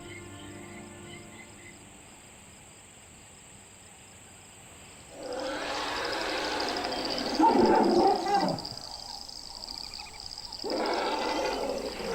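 African elephants calling at a waterhole: a loud, harsh bellow begins about five seconds in, and another shorter call follows near the end, over a steady high chirring of insects.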